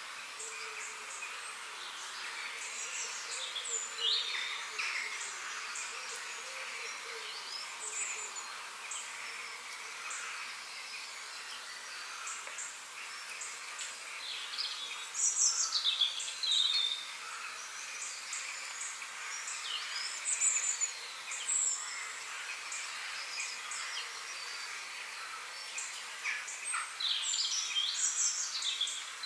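Several songbirds chirping and singing in short, quick phrases over a steady high hiss of outdoor ambience, with the busiest bursts of calls about halfway through and near the end.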